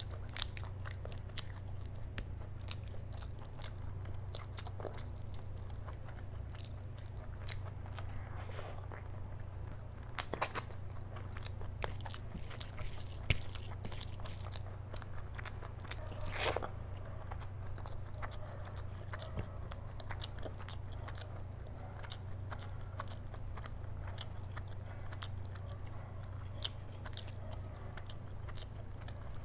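Close-miked chewing and wet mouth clicks from eating curry and rice by hand, with the squelch of curry-soaked rice squeezed between the fingers. A steady low hum runs underneath.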